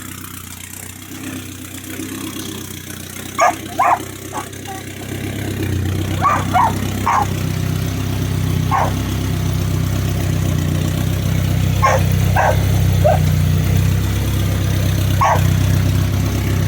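Volkswagen 1.8-litre turbo four-cylinder running at idle just after a cold start, getting louder about five seconds in. A dog barks about ten times in short bursts over it.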